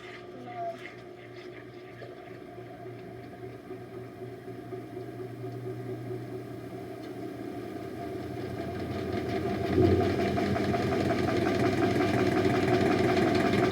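Washing machine starting its spin cycle with a badly unbalanced load: the drum speeds up and the running grows steadily louder, with a heavy thump about ten seconds in.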